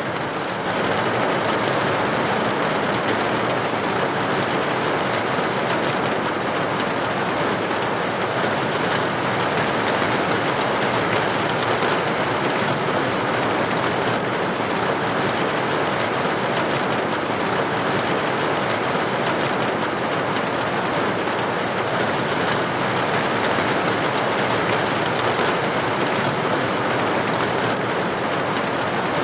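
Steady rain pattering on a window pane, a dense, even hiss of drops that holds its level throughout.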